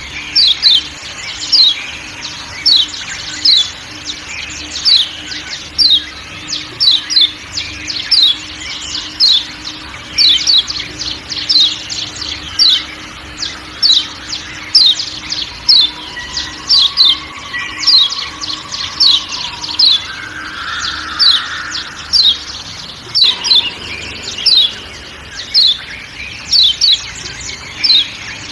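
Yellow white-eye (kecial kuning, a Zosterops) giving short, sharp 'ciak' chip calls, each sweeping downward, about two a second, over faint forest sounds.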